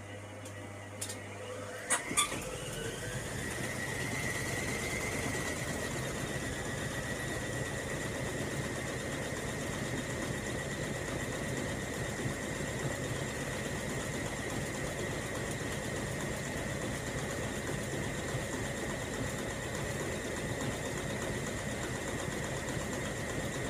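Hoover Logic washing machine: a couple of relay clicks as a low hum stops, then the drum motor speeds up with a rising whine that levels off into a steady high-pitched whine over a continuous mechanical rumble, as the drum spins.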